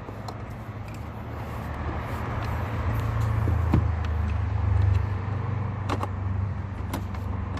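Low, steady hum of a motor vehicle's engine that swells from about three seconds in and eases off after five, with a few sharp light clicks near the end.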